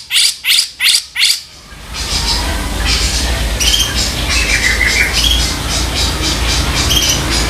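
Grey-cheeked bulbul (cucak jenggot) giving a rapid series of harsh, rasping calls, about four a second, that stops about a second and a half in. Then come scattered chirps and a short warbled phrase over a steady low rumble.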